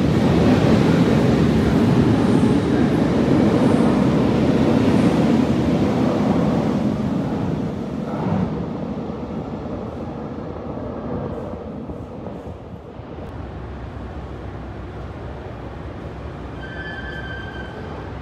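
RER A double-deck train pulling out of an underground station: a loud rumble of wheels and motors that fades away after about eight seconds, leaving a steady station hum. A brief high tone sounds near the end.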